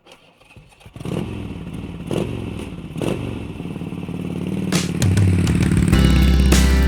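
KTM 1290 Super Duke GT's V-twin engine running, coming in about a second in and growing louder, with a few clicks and knocks over it. Guitar music comes in near the end.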